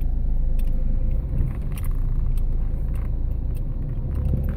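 Car driving slowly over a rough track, heard from inside: a steady low rumble of engine and tyres, with scattered light rattles and clicks.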